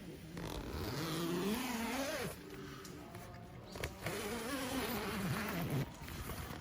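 An engine revving twice, its pitch rising and then falling away in two pulls of about two seconds each.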